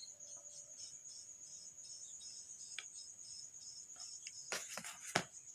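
Faint, steady high-pitched cricket trilling, with a few sharp clicks near the end.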